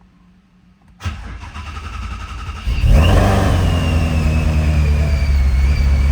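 Supercharged 2017 Ford Mustang Shelby GT350's 5.2-litre flat-plane-crank V8 starting: the starter cranks about a second in. The engine catches with a flare near three seconds and settles into a loud, steady idle with a high whine over it.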